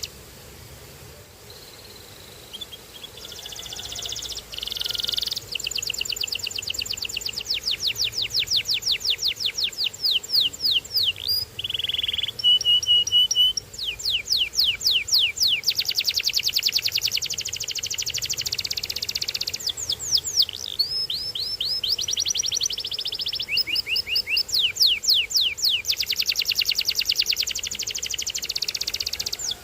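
Domestic canary singing. Fast rolling trills and strings of rapidly repeated notes start a couple of seconds in, broken by a short steady held note partway through.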